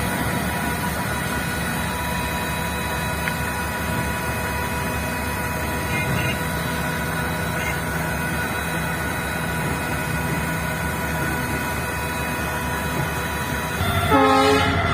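A heavy vehicle running steadily, with a low rumble and a held tone over it. A short, louder pitched sound comes in near the end.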